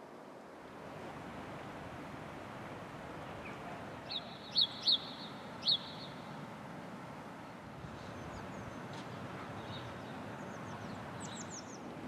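A small bird calling: three sharp, high chirps a little before the middle, and a quick run of fainter chirps near the end, over a steady background rush.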